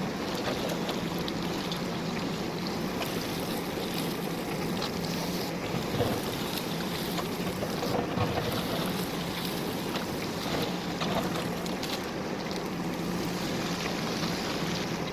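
JCB backhoe loader's diesel engine running steadily under work, a constant low hum, with scattered short knocks and scrapes from the digging, the sharpest about six and eight seconds in.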